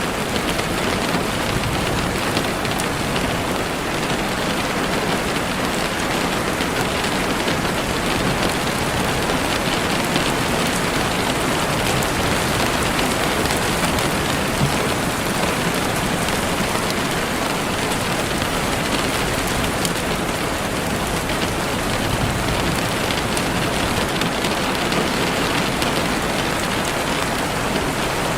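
Heavy rain falling steadily on leaves and the forest floor, a dense, even hiss with scattered drop taps.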